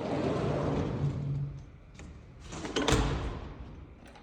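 A folding patio door sliding along its track for about a second and a half, then a knock about three seconds in as it shuts.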